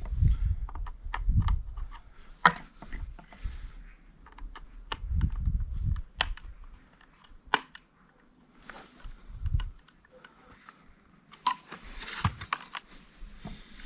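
Scattered clicks and taps of metal parts being handled on a chainsaw's bar and chain, with a few dull low thuds and a busier patch of clicking near the end; the chain is being tensioned, the engine not running.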